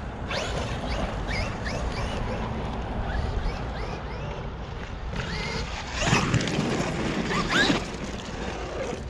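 Traxxas XRT RC truck's electric motor whining in short rising bursts as the throttle is worked, over steady tyre-on-dirt noise. Two louder bursts come in the last third.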